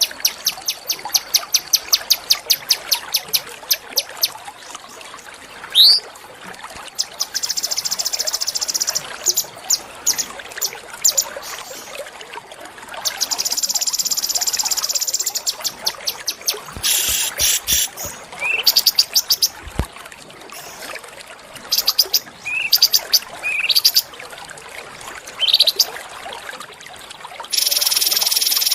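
Small songbirds singing in a recorded bird-song compilation. The song has fast runs of short repeated high notes, several quick rising whistled sweeps, and long dense buzzy trills lasting a second or more, the loudest about halfway through and near the end.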